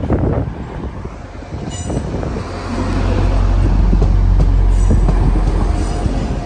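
A train running along the track, a low rumble that builds about two seconds in and then holds steady.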